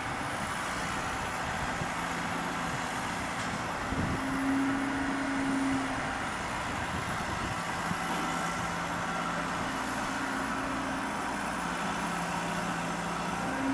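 Electric multiple-unit passenger train running slowly into the station, a steady running noise with humming tones that switch back and forth between a lower and a higher pitch. A single click about four seconds in.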